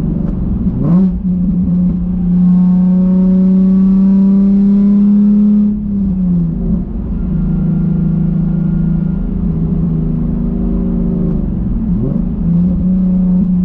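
A drift car's engine running hard at steady high revs, its pitch dipping briefly and recovering three times, about a second, six and twelve seconds in.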